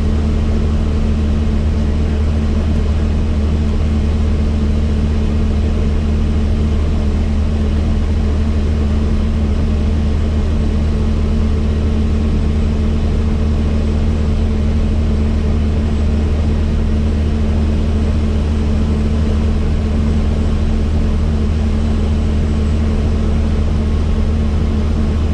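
Helicopter in flight: a loud, steady drone of rotor and engine with a deep hum, unchanging throughout.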